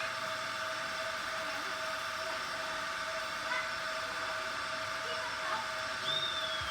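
Battery-powered toy train running with a steady whir and a constant hum, and a brief falling high tone near the end.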